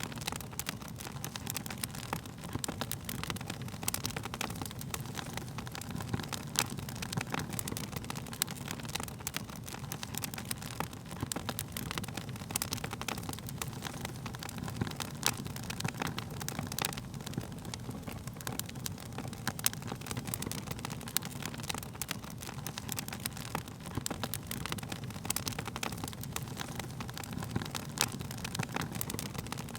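Wood fire crackling, with frequent irregular sharp snaps and pops over a steady low rush of the flames.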